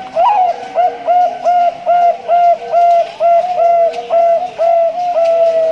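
Male Bangkok-strain zebra dove (perkutut) singing: a higher opening note, then a run of about a dozen short, evenly spaced cooing notes, two to three a second. Other doves coo faintly at a lower pitch behind it.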